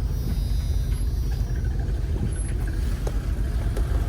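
Vehicle engine idling steadily with a low rumble, just after a cold start.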